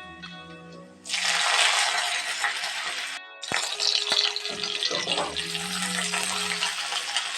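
A loud steady hiss in two long stretches, broken by a short gap about three seconds in, over background music.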